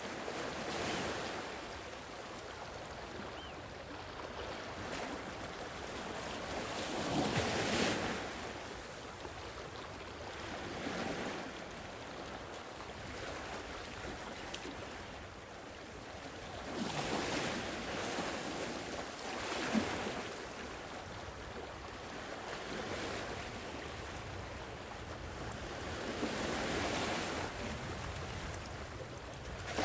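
Sea waves washing onto a shore, a steady wash of surf that swells and fades every few seconds as each wave breaks.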